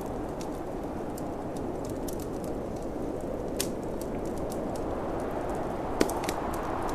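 Wood fire crackling with scattered sharp pops, the loudest about six seconds in, over a steady low rush of snowstorm wind.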